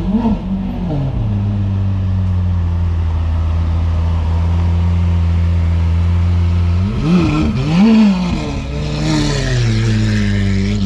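A car engine idling with a steady drone, revved in short blips: one right at the start, then two quick rises about seven and eight seconds in before it falls back to idle.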